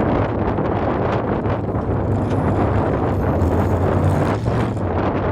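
Formula offroad race buggy's engine running, with wind buffeting the microphone.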